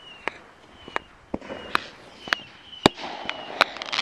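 Aerial fireworks going off over a lake: a string of sharp bangs about twice a second, with short high whistles between them. A denser crackle builds near the end.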